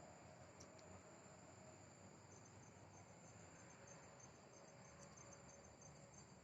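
Faint crickets chirping: a steady high trill, joined about two seconds in by a second, pulsed chirping at about five a second, with a few faint clicks.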